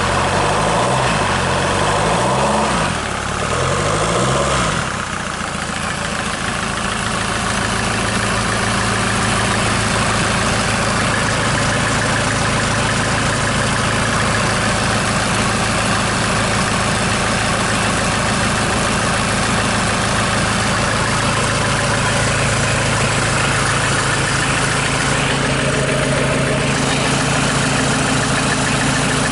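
SsangYong 2.0 XDi four-cylinder diesel engine running on a test stand. Its pitch rises and falls several times in the first few seconds as it is revved, then it settles to a steady idle.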